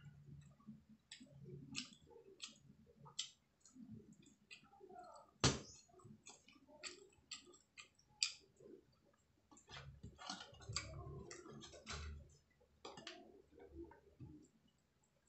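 A person eating by hand close to the microphone: irregular wet mouth clicks and lip smacks of chewing rice and fried fish, with a sharper click about five and a half seconds in.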